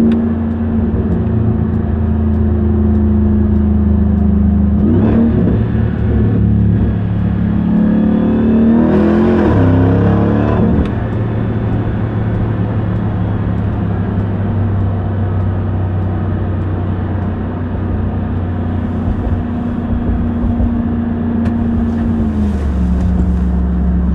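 Supercharged 6.2-litre Hemi V8 of a 2021 Ram 1500 TRX pickup driving, its note rising as it accelerates about eight to eleven seconds in, then running steadily at cruise, with the note dropping a step near the end.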